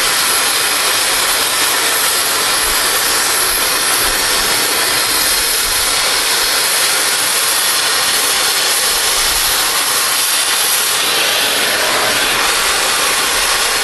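Oxy-fuel cutting torch flame-cutting steel railroad rail: a loud, steady hiss of the cutting jet that does not let up.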